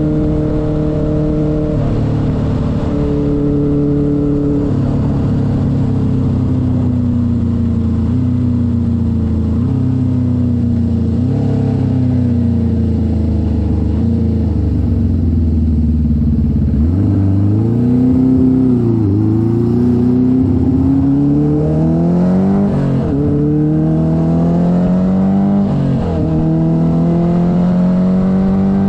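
1972 Honda CB500's air-cooled inline-four engine running under way. Its note sinks slowly for the first half, then rises in several climbs with short dips between them as it accelerates through the gears.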